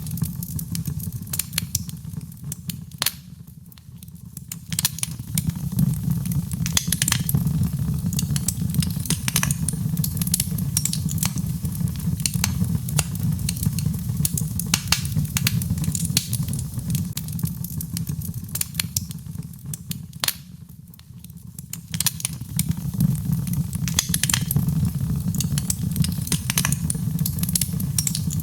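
Birch logs burning in a fireplace, crackling with frequent sharp pops and snaps over a steady low rumble. The rumble eases briefly twice, a few seconds in and again about two-thirds of the way through.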